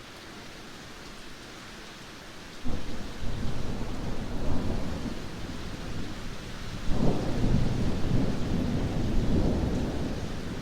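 Heavy rain falling steadily, then thunder breaks in suddenly about two and a half seconds in and rumbles on, with a second, louder clap about seven seconds in that rolls on.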